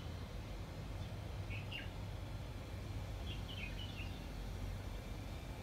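Birds chirping: a few short, falling high chirps, once about a second and a half in and again as a quick cluster around three to four seconds in, over a steady low background rumble.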